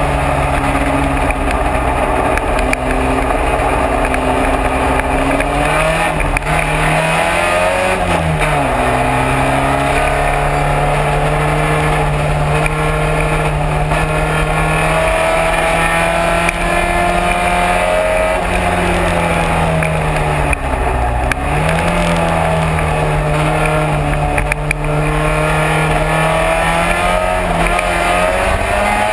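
Classic race car's engine running hard on track, mostly holding steady revs. The pitch drops about eight seconds in and again about twenty-one seconds in, as for braking or a shift, then climbs again.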